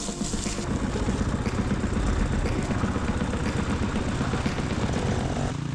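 Dirt bike engine running under throttle while riding, easing off near the end.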